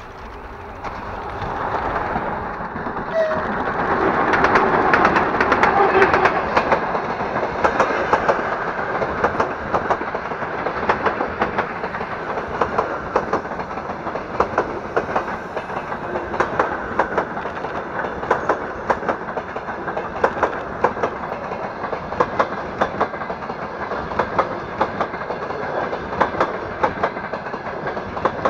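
Passenger train of blue coaches passing close by: the noise swells to its loudest about five seconds in, then settles into a steady rapid clatter of wheels over rail joints as the coaches roll past.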